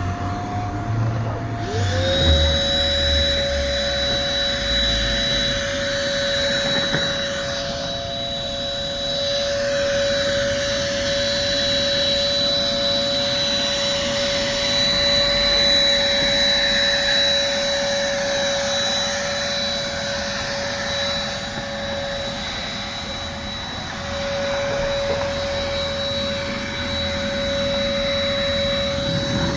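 Car wash vacuum cleaner switched on about two seconds in, its motor winding up to speed and then running steadily with a high whine over the rush of suction as it vacuums a taxi. The whine wavers briefly a little past the middle.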